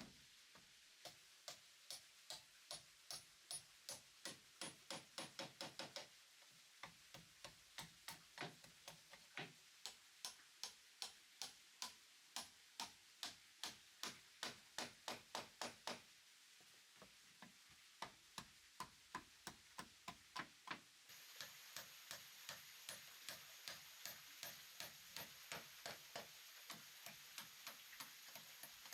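Runs of sharp knocks on wood, a few a second, each run quickening before a short pause, like a mallet or hammer striking a chisel or driving a wooden peg. A faint steady hiss joins about two-thirds in.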